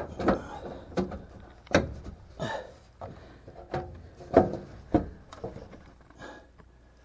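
Irregular knocks and clunks of a dryer's cover panel and screws being handled and fitted, about a dozen spread unevenly, dying away near the end.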